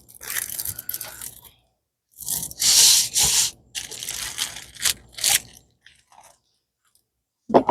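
A diamond painting canvas and kit being handled: crinkling and scraping in several bursts, the loudest about three seconds in.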